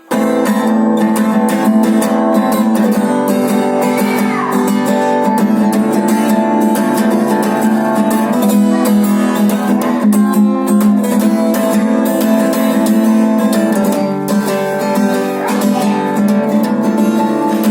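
Guitar strummed in a steady rhythmic chord pattern, with no singing yet, starting abruptly at the opening.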